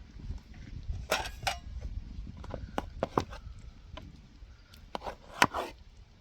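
Irregular sharp knocks and clacks, about ten spread unevenly over several seconds, over a low rumble.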